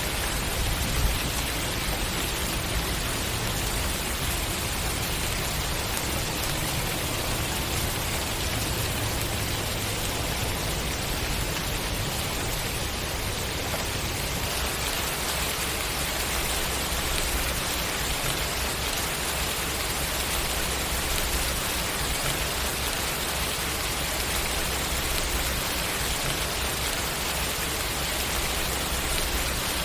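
Steady rain falling, an even, unbroken hiss with no rise or fall, and one brief louder tap about a second in.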